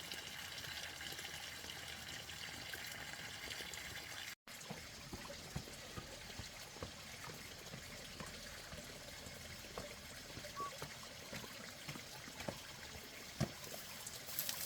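Water trickling steadily, with a few faint knocks scattered through.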